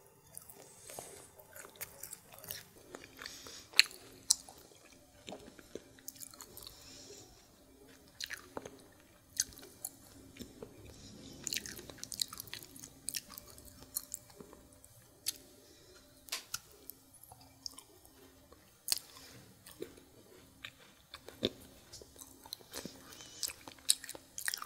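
Close-miked chewing and mouth sounds of someone eating Indian sweets, with irregular sharp smacks and clicks.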